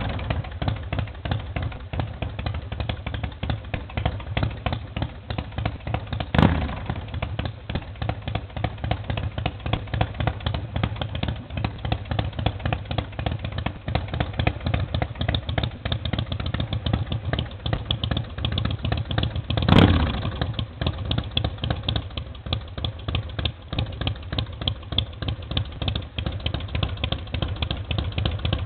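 2005 Big Dog Bulldog motorcycle's V-twin engine idling with a steady, lumpy pulse, blipped briefly on the throttle twice, about 6 seconds in and again about 20 seconds in.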